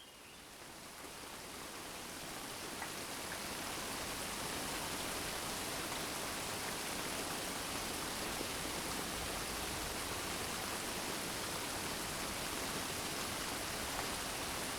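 Gentle, steady rain falling, a soft even hiss that fades in over the first few seconds and then holds level.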